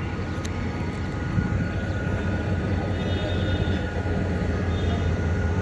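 Diesel train running slowly, a steady low rumble that grows slightly louder.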